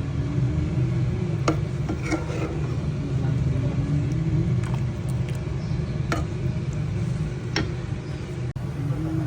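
A steady low rumble with a faint wavering hum, broken by a few short, sharp clicks.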